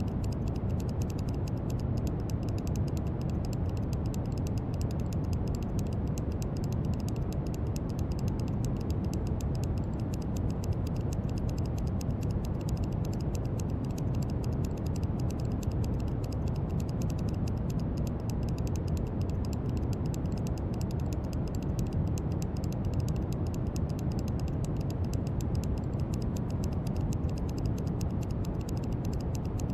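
Steady brown noise: a deep, even rushing hiss weighted toward the low end, with no change in level.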